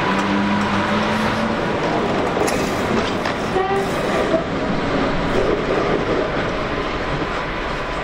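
A train running past on the track, a steady rumble and rail noise, with a held low tone during the first second and a half that eases off slightly towards the end.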